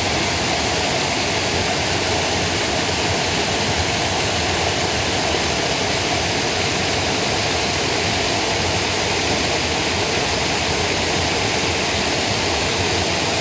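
Steady rush of creek water pouring over a small man-made dam waterfall.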